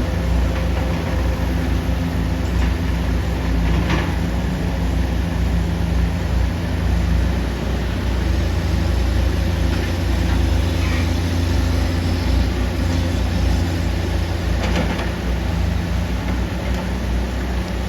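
Excavator's diesel engine running steadily, with a couple of short sharp knocks or scrapes, one about four seconds in and another near fifteen seconds.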